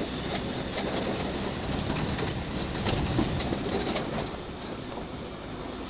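Truck driving on a rough dirt road, heard from its open bed: steady engine and road rumble with a busy clatter and rattle.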